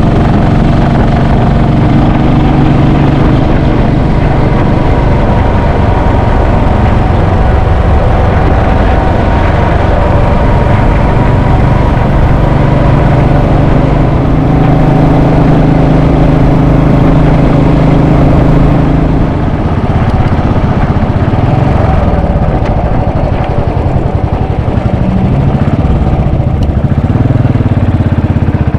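Royal Enfield Bullet 500 EFI's single-cylinder engine running, loud and continuous. Its note holds steady for much of the time, dips briefly about two-thirds through, then shifts in pitch near the end.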